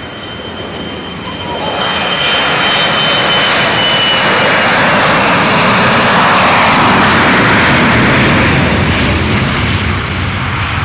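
Jet airliner passing close by: the roar of its engines swells over about two seconds, holds loud through the middle and eases off near the end, with a thin high whine that fades out about four seconds in.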